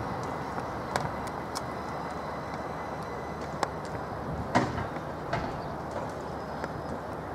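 c2c Class 357 Electrostar electric train moving through the station, a steady low rumble with a few sharp clicks and knocks, the loudest about halfway through.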